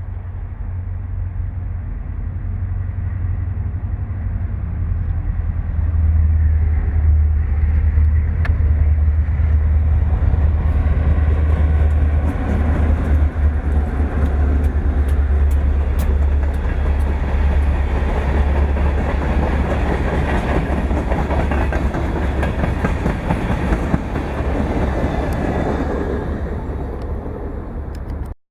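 Freight train of tank cars rolling past on the rails, with a steady low rumble and wheels clicking over rail joints. It grows louder about six seconds in and cuts off suddenly near the end.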